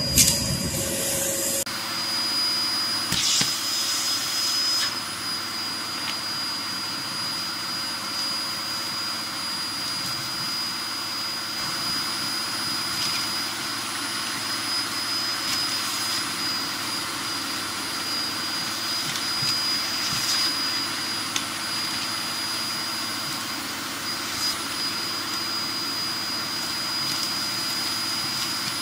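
Hoover Performer Pet HPT16 upright vacuum cleaner running steadily with a constant high whine while vacuuming fireplace ash, with a few brief clicks.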